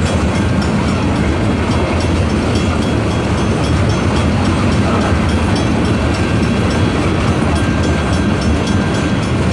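Freight train of tank cars rolling steadily past at close range, a continuous rumble of wheels on rail with clicking over the rail joints.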